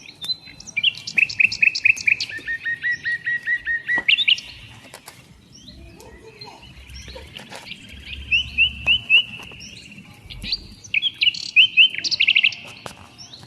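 A songbird singing three loud phrases of fast repeated notes, several a second, with quieter pauses between them.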